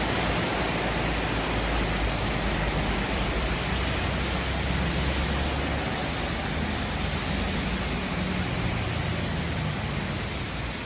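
Heavy rain pouring down in a steady, dense hiss, with a low rumble underneath.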